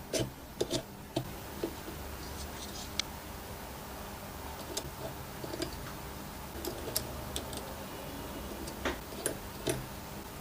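Scattered light clicks and taps at an uneven pace, with a cluster in the first second and a few sharper ones near the end, over a steady low hum.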